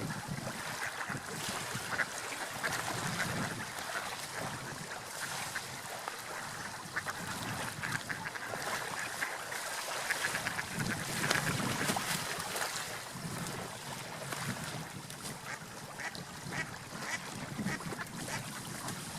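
Ducks feeding in shallow water: a continuous, busy patter of splashing and dabbling with many small clicks, and duck calls mixed in.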